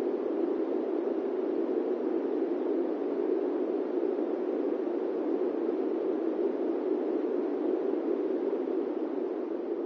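Steady airplane cabin noise: an even, unbroken rushing drone centred low-mid, with no tones or events.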